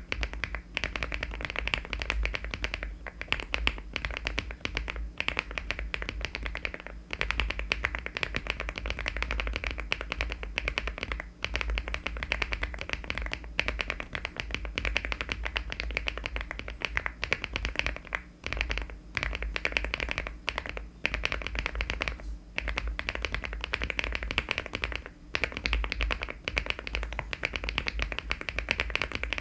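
Fast, continuous typing on a LEOBOG Hi75 aluminium-case mechanical keyboard fitted with HMX switches and Cherry-profile keycaps. It is a dense stream of key clacks broken by a few short pauses.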